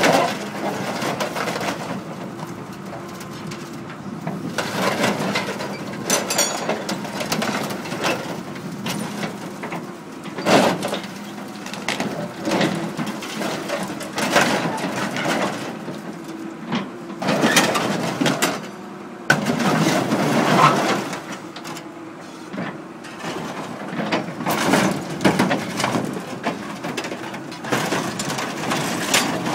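A combine harvester's metal body being crushed by heavy machinery: repeated crunching, creaking and banging of sheet metal over a steady machine engine hum.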